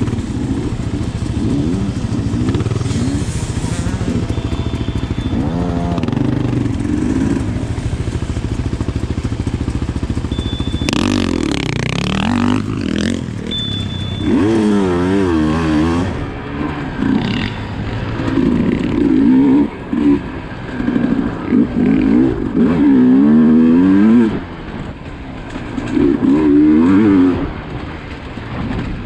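Sherco SE300 two-stroke enduro motorcycle engine revving hard. It is fairly steady for about the first ten seconds, then rises and falls in repeated bursts as the throttle is opened and shut over rough ground.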